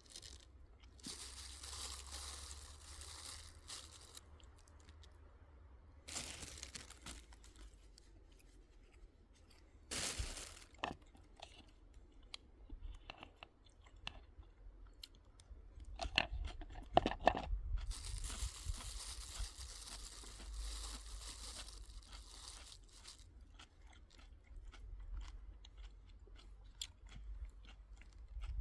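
Crunching and rustling handling noises in several spells, with scattered clicks and knocks.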